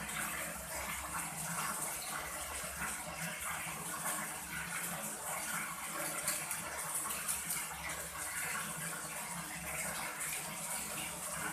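Water running and splashing steadily as fish are washed and cleaned.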